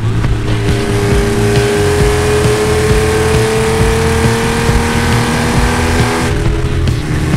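Air-cooled flat-six engine of a Porsche 911 SC with ST conversion pulling under load, its pitch rising slowly and steadily for about five seconds. About six seconds in, the engine sound drops away suddenly.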